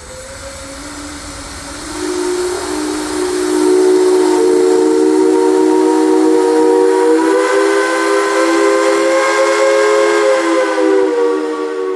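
Steam whistle on a 1919 Sawyer-Massey steam traction engine blown in one long blast: several tones sounding together as a chord over steam hiss. It swells over the first few seconds, holds loud, rises a little in pitch partway through, and fades at the end.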